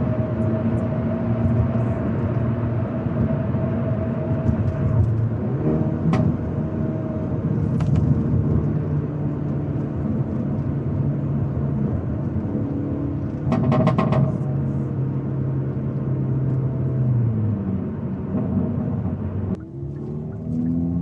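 Hyundai Elantra N's turbocharged four-cylinder engine and exhaust running while the car drives slowly, a steady hum whose pitch shifts with throttle. There is a brief cluster of sharp clicks about two-thirds through, and near the end the pitch falls and the sound drops away as the car slows.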